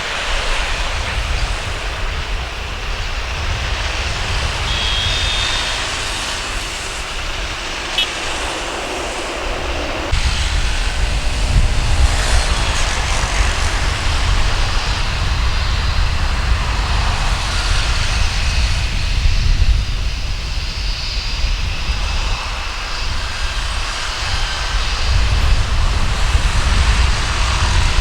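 Jet airliner engines heard across an airfield, a steady engine noise that steps up about ten seconds in to a louder, deeper sound: an Airbus A320's twin turbofans at takeoff power.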